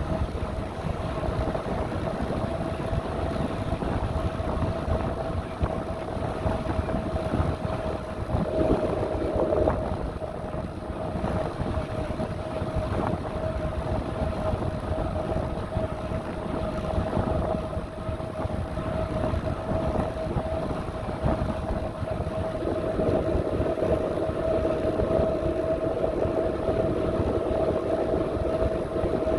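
Riding noise from a bicycle on the move: wind buffeting the microphone over rolling tyre noise, with a steady whine throughout.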